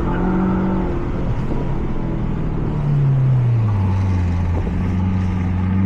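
Mazda 3 MPS's turbocharged 2.3-litre four-cylinder engine on track: the engine note falls for about four seconds as revs drop, then climbs again near the end as the car accelerates, over steady road and wind noise.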